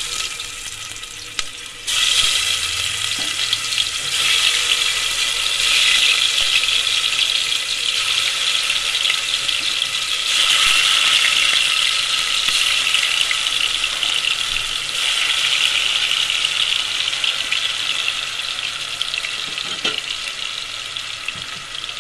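Marinated chicken pieces sizzling and crackling as they deep-fry in hot oil. The sizzle jumps louder about two seconds in and builds in steps as more pieces go into the oil.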